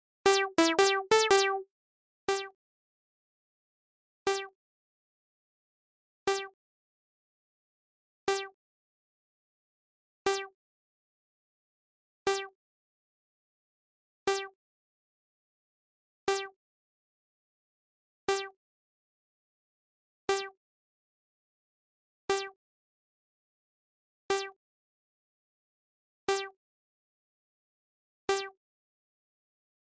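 Short, identical electronic keyboard-like notes: a quick run of about six at the start, then a single note every two seconds, with silence in between.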